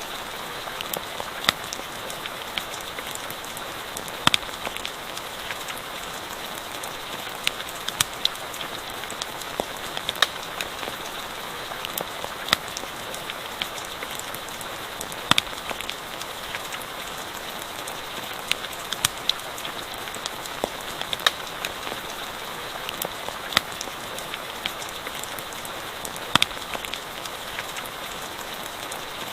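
Steady rain falling, with a campfire crackling: an even hiss broken by sharp pops and ticks every second or so.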